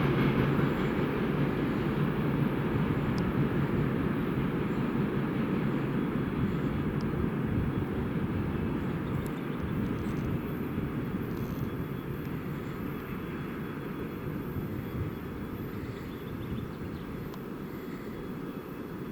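Freight train rolling along the rails, a steady rumble of wagon wheels that slowly fades as it moves away.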